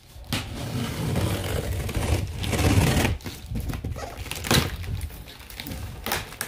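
A large cardboard box being handled and worked open, with rough scraping and rustling of cardboard and a few knocks against it.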